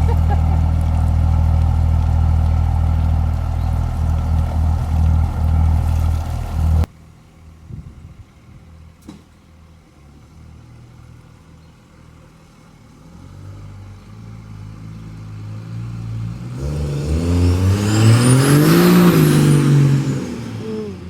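Cummins diesel engine running steadily close by, cut off abruptly about seven seconds in. After that the truck comes on under full throttle, growing louder, and passes by near the end, its exhaust note rising and then dropping in pitch as it goes.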